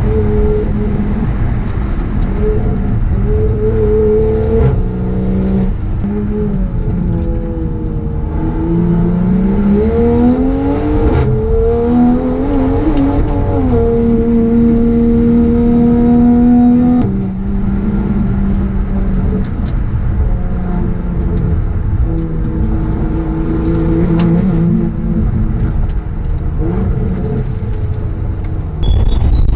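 Toyota A90 Supra race car's engine heard from inside the cabin while driving uphill, changing pitch with throttle and gears: it climbs steadily from about eight seconds in, holds high, then drops sharply around seventeen seconds in and runs lower and uneven after that.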